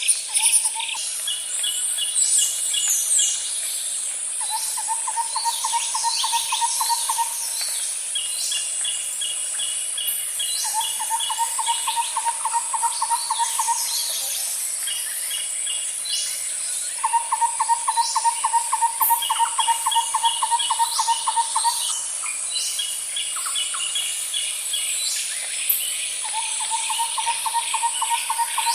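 Nature ambience: a steady high-pitched insect drone, with a lower pulsed trill that repeats every few seconds, each lasting a few seconds. Short chirps and quick runs of higher calls are scattered throughout.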